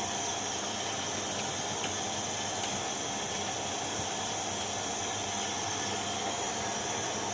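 Steady background hiss with a faint constant hum, and a couple of very faint light clicks about two seconds in.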